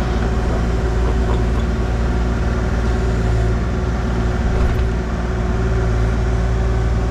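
Excavator engine running steadily at a constant speed, a continuous low hum with a steady tone.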